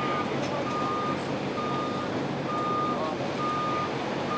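Vehicle backup alarm beeping at a steady pace, about one beep a second, all on one high tone, over a steady low hum.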